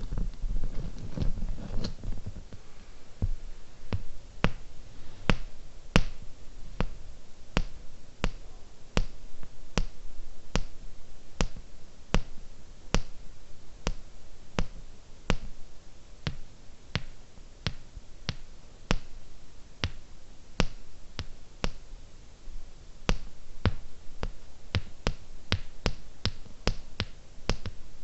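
Slow fingernail tapping on small hard objects: crisp, sharp taps at a steady pace of about two a second, with some softer rumbling handling in the first two seconds.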